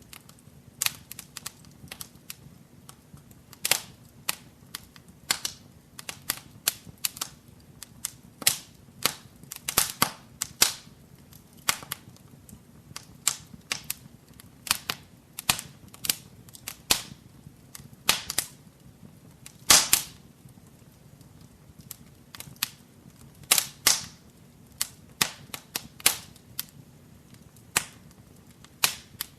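Wood fire crackling in a fireplace: irregular sharp pops and snaps, some louder than others, over a faint low hiss of flame.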